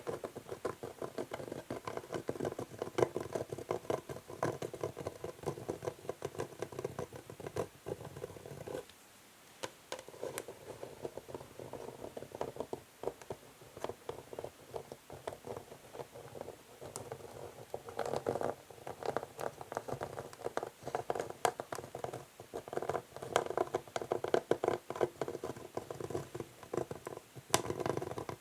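Natural fingernails scratching across an old wooden chess board: dense, continuous scratching that pauses briefly about nine seconds in.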